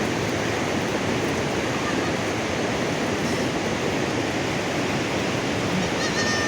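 Heavy rain falling steadily, an even, dense hiss. A short high whistling tone rises over it near the end.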